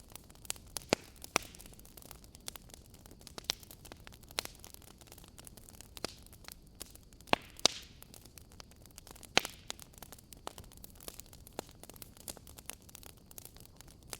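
Wood fire crackling: irregular sharp pops and snaps over a faint steady hiss, a few of them much louder than the rest.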